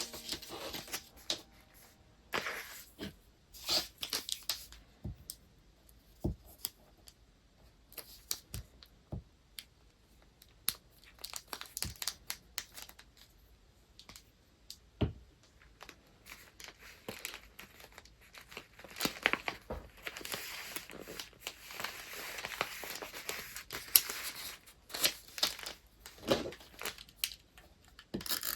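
Paper and wrapping materials being handled up close: crinkling and rustling, with scattered sharp taps and small tearing sounds. The rustling thickens into a long stretch of steady crinkling about two-thirds of the way through.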